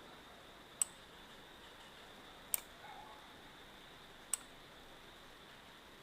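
Three single computer mouse clicks, about a second and three quarters apart, over faint steady hiss.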